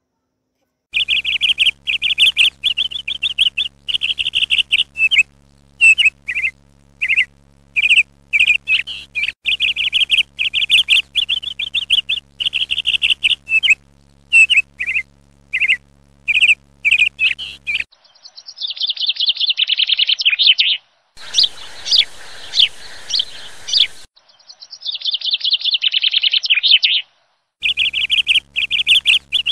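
Birds chirping in quick runs of high, rapid chirps broken by short gaps, over a faint steady low hum. Past the middle the pattern changes to a different, longer warbling song, with a few seconds of hiss and sharp chirps.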